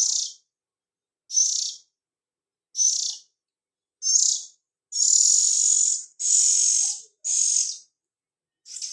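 Black-billed magpie nestling giving raspy, high-pitched begging calls, a short call about every second and a half, then longer calls close together in the second half. They are the calls of a hand-reared chick waiting to be fed.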